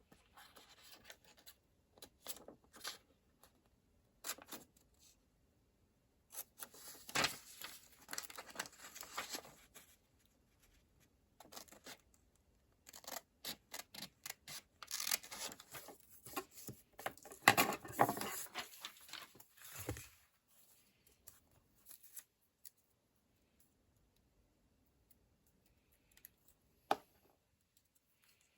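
Close-up handling of paper and sticker sheets for a planner: irregular bursts of papery rustling, rubbing and snipping in two longer busy stretches, with a single sharp tap near the end.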